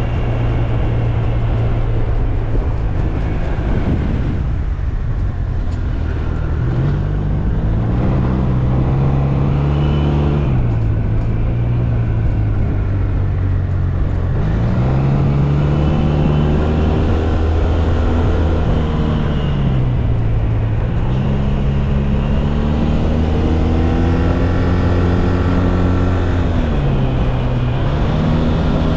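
Kymco Maxsym TL 508 maxi-scooter's parallel-twin engine under way, rising in pitch as it accelerates, holding, then dropping back, three times over, above steady wind and road noise.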